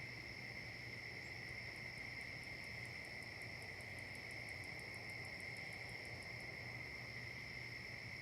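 Chorus of crickets trilling steadily without a break, with a second insect adding a fast run of high ticks, about five or six a second, from just after the start until a couple of seconds before the end.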